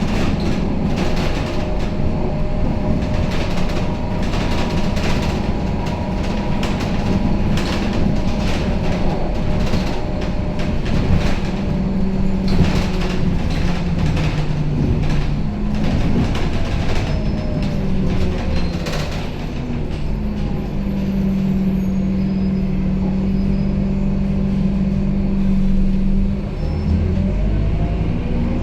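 Scania K270UB city bus under way, heard from inside the cabin: the engine and drivetrain run steadily while the body and fittings rattle and knock over the road. In the last third the rattling thins out and a steady low hum holds for several seconds.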